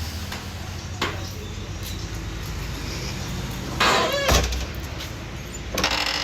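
Old car's engine idling steadily, with a sharp click about a second in and a low thud just after four seconds.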